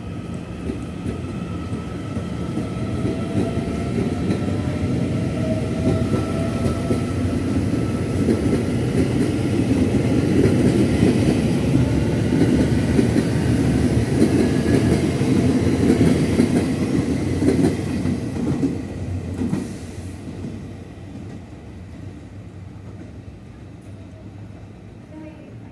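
Puyuma Express tilting electric multiple unit pulling out and passing close by: a steady rumble of wheels on the rails with a faint rising motor whine as it gathers speed. It is loudest midway, then fades as the train draws away.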